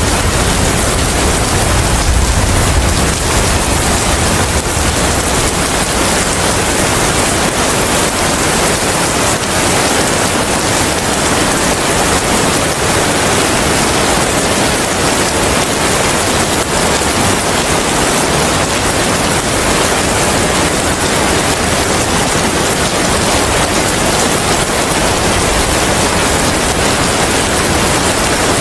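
Steady, heavy rain falling as an even hiss. A deep low rumble carries into the start and dies away over the first few seconds.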